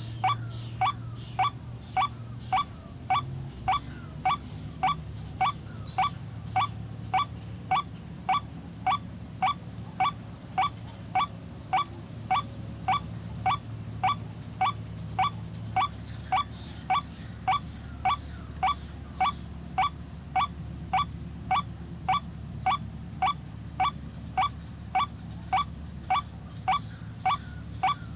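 White-breasted waterhen (ruak-ruak) call, most likely a recording played as a trapping lure: a short honking note repeated at a perfectly even pace, about twice a second, over a low steady hum.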